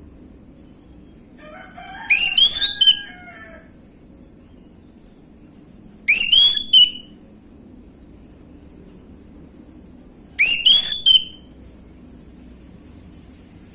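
Orange-headed thrush singing: three short phrases of sharp, rising whistled notes about four seconds apart, the first one longer, over a faint steady low hum.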